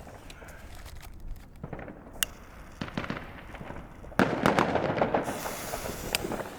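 Fireworks going off: scattered faint pops and cracks, then about four seconds in a sudden loud bang followed by about a second of dense crackling, a hiss and one more sharp crack. This is the Röder Vierschlag Inferno firing.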